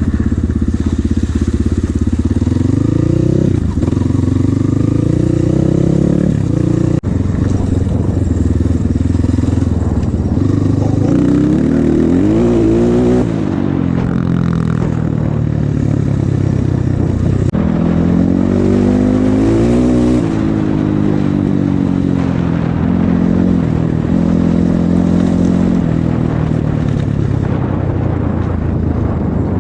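Off-road motorcycle engine being ridden, revving up and easing off again and again as the rider works the throttle and gears.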